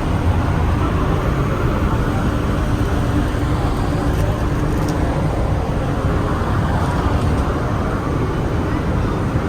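Steady low engine rumble with a faint constant hum, unbroken throughout, with faint voices in the background.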